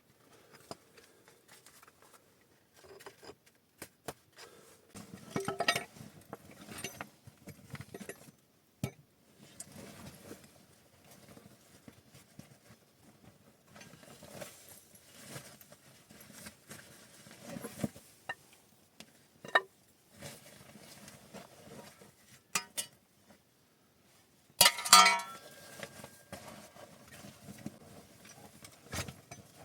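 Irregular clinks and knocks of hard objects being handled, some with a short ringing tail, and a louder clattering clink about 25 seconds in.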